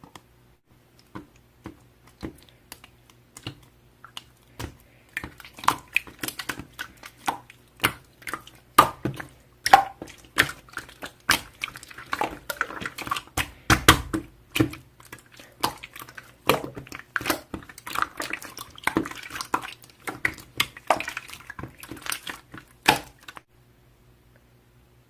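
Slime being squeezed and poked by hand, a run of irregular sticky clicks and wet squelching pops, sparse at first, thick in the middle, then stopping shortly before the end.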